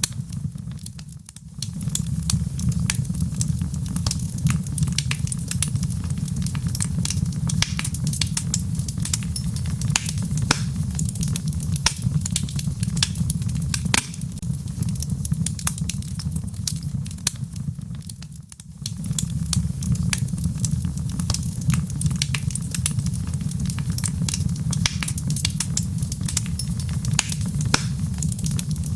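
Log fire burning in a fireplace: dense crackles and pops of burning wood over a steady low rumble of flame. The sound briefly dips quieter twice, about a second in and again about eighteen seconds in.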